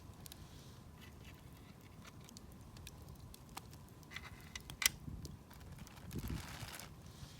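Wood campfire crackling: scattered small snaps and pops, with one sharp pop a little under five seconds in and a brief rushing hiss near the end.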